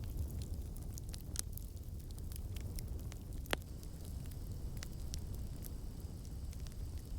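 Campfire burning: a steady low rumble of flames with scattered crackles and pops from the burning wood, one louder pop about halfway through.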